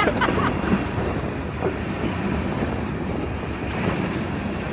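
Freight train's cars rolling slowly past at close range: a steady rumble of wheels on the rails.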